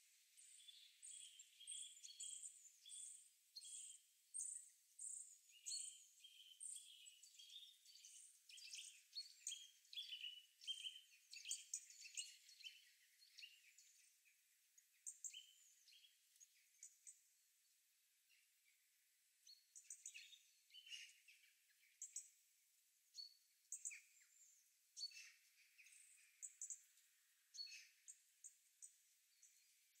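Small songbirds chirping and singing faintly, with many short high calls overlapping at several pitches. The calls are busiest in the first half and thin out after the middle.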